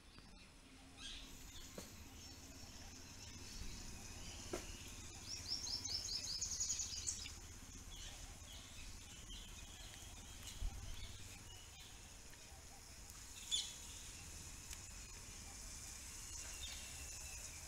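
Small birds chirping faintly over low background noise: a quick run of high, repeated trilled notes about five seconds in, and a single sharp chirp about two-thirds of the way through.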